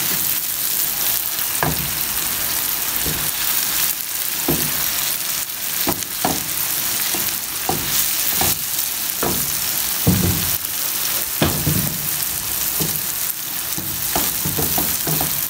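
Diced potatoes, onion and tomato sizzling in hot oil in a frying pan, turned with a wooden spatula that scrapes the pan in irregular strokes about once a second.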